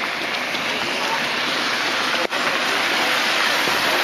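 Steady hiss of rain falling on wet pavement, cutting out for an instant a little over two seconds in.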